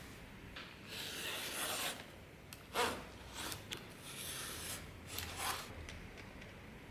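Hand rubbing or scraping strokes on a workpiece, a second or so each, with a sharp knock about three seconds in and a few light clicks.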